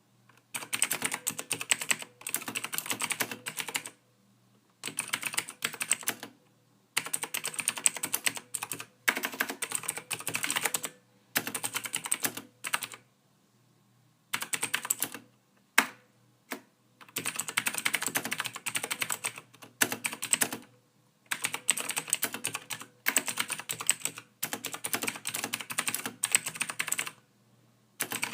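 Computer keyboard being typed on in quick runs of key clicks, each run lasting one to three seconds, with short pauses between.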